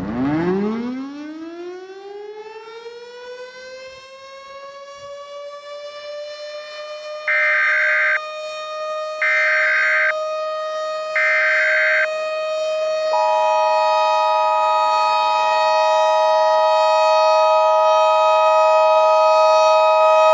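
Civil defense siren winding up from a low pitch to a steady wail and holding it. About seven seconds in, three one-second bursts of Emergency Alert System SAME header data screech over it, and from about thirteen seconds the EAS two-tone attention signal sounds together with the siren.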